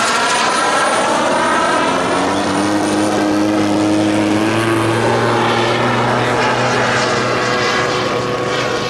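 Giant-scale radio-control model airplane's propeller engine droning in flight, its pitch falling at the start and shifting a few times.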